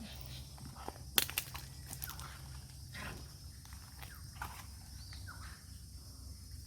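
Scattered rustles, clicks and snaps of someone moving around in creekside scrub, over a steady low rumble.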